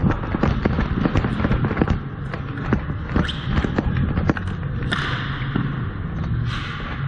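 Dek hockey play: rapid sharp clacks and knocks of hockey sticks hitting the ball, one another and the sport-tile court. Two short rushes of noise come near the end.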